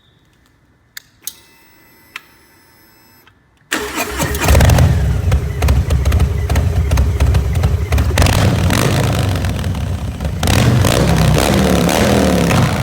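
Harley-Davidson V-twin motorcycle started: a few clicks and a faint steady whine, then the engine fires about four seconds in and runs loud and deep through the exhaust, with throttle blips a few seconds later.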